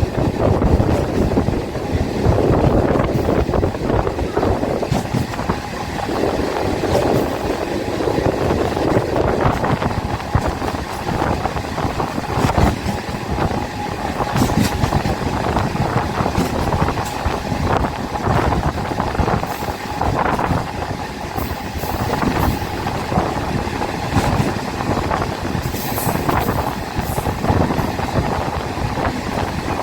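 MEMU electric train heard from on board while running: a steady rumble of wheels on rails with frequent rattles and clanks.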